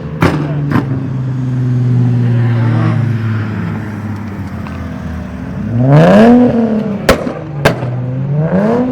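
A car engine running steadily, then revved twice in quick blips that rise and fall, about six seconds in and again near the end. Several sharp pops crack out between the revs.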